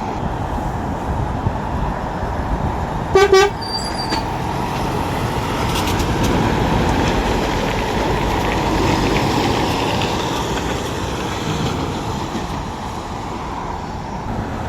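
A vehicle horn gives one short, loud toot about three seconds in, over steady road-traffic noise. The traffic noise swells and fades again in the middle as a vehicle goes by.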